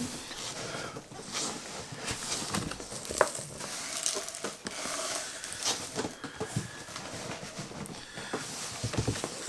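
Cardboard packaging being handled and opened: irregular rustles, scrapes and light knocks.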